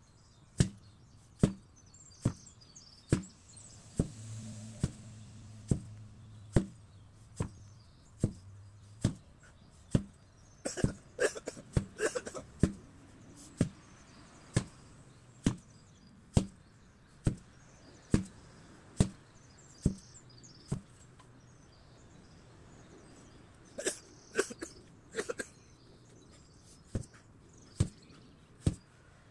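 An 8 kg sledgehammer striking over and over at a steady pace, a little more than one hit a second. There are clusters of lighter knocks between the hits about a third of the way in and again near the end.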